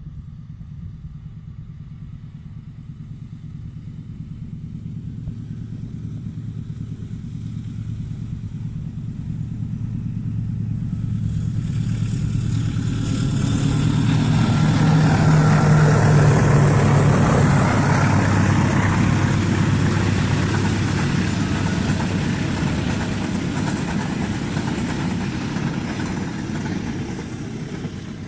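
Diesel-locomotive-hauled passenger train approaching and passing. The locomotive's low engine drone grows steadily louder and peaks about fifteen seconds in, then the rushing of wheels and carriages carries on and slowly fades.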